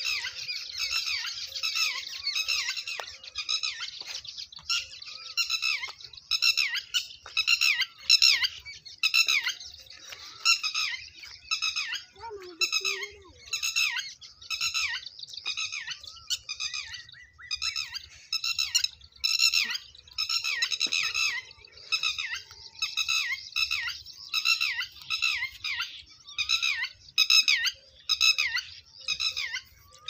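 Birds calling in a steady stream of short, high calls, two or three each second without a break.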